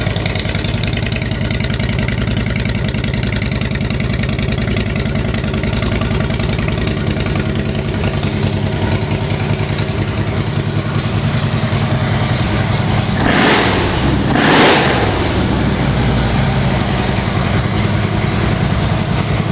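2012 Harley-Davidson Road Glide Ultra's 103 cubic inch V-twin idling through Rinehart aftermarket exhaust, a steady loping run, blipped twice in quick succession about two-thirds of the way through.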